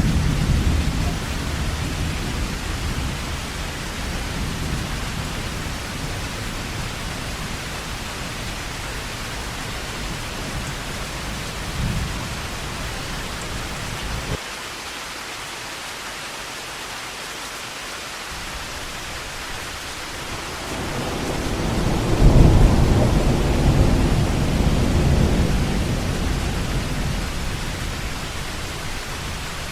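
Heavy rain falling steadily, with thunder rumbling. One rumble fades away over the first few seconds. The low rumble cuts off suddenly about halfway through, and another rolls in about twenty seconds in, loudest a couple of seconds later and dying away near the end.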